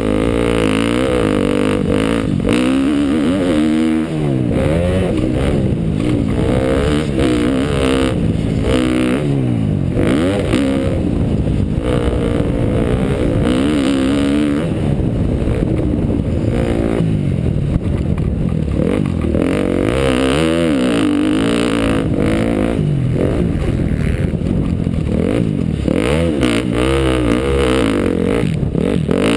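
2012 KTM dirt bike engine being ridden around a motocross track, its pitch rising and falling over and over as the throttle is opened and closed through the turns and jumps.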